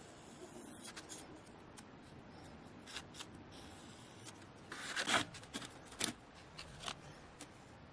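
Light hand-work noises: soft rubbing and scraping with scattered small clicks, with a louder scrape about five seconds in and a sharp click about a second later.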